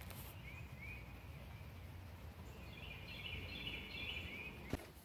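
Faint bird chirping: two short rising chirps near the start, then a run of quick twittering from about halfway until near the end, over a low steady hum. A single sharp click near the end.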